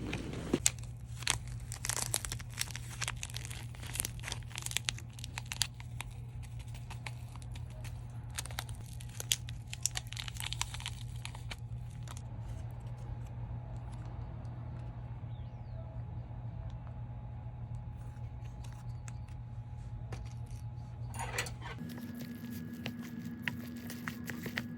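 Plastic food packaging being handled, crinkled and torn open, busiest in the first half and quieter later, over a steady low hum.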